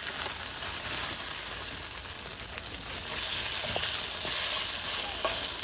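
Food frying in a hot pan: a steady sizzle with small scattered crackles.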